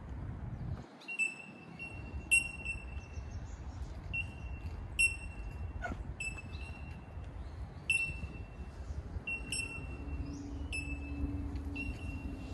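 A bird's high, clear call, repeated irregularly at one to two notes a second. Each note starts sharply and is held on one pitch for about half a second, and some notes overlap. A low steady rumble runs underneath.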